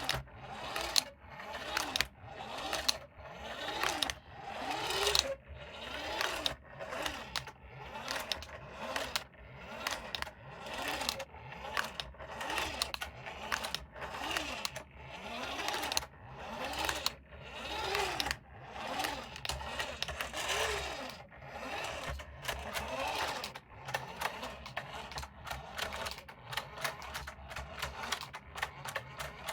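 Small electric motor of a remote-control toy car whirring in short bursts, about one a second, its pitch rising and falling with each burst.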